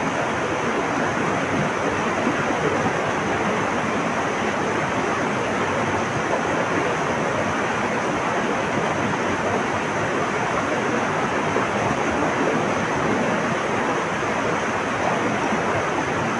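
Flowing water rushing steadily, an even unbroken wash with no distinct birdsong standing out.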